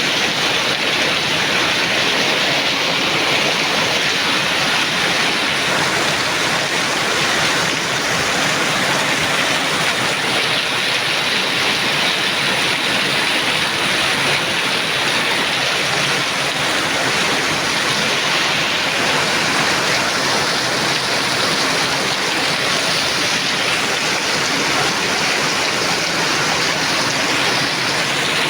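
Torrential tropical rain pouring down, a loud, steady hiss of heavy rainfall that does not let up.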